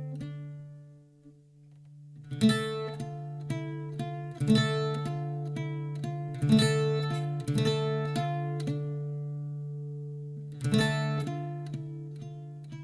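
Acoustic guitar music: strummed chords ringing out over a steady low note. The playing drops away briefly about a second in, then the strumming picks up again.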